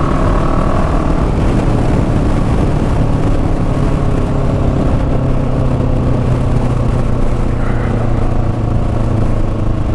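Motorcycle engine running steadily while riding, its note holding at a near-constant speed under heavy rushing wind noise.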